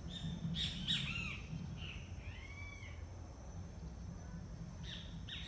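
Birds calling: a few short chirps that rise and fall in pitch in the first half, and another cluster near the end, over a faint steady low rumble.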